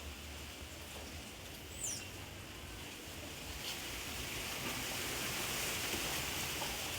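Steady outdoor background hiss with a single short, high bird chirp about two seconds in.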